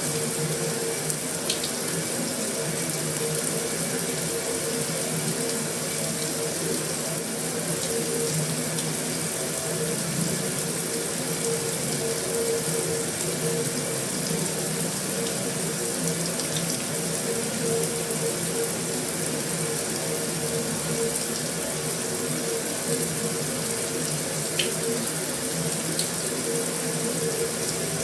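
Heavy rain falling steadily on a metal roof, an even hiss with an occasional sharper tick of a single drop.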